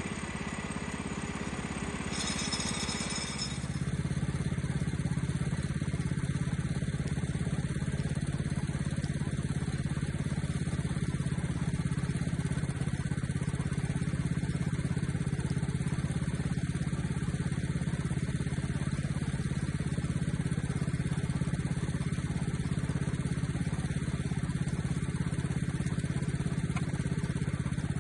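A small gasoline engine runs steadily. About three and a half seconds in its sound shifts and settles into a lower, steady drone that holds from then on.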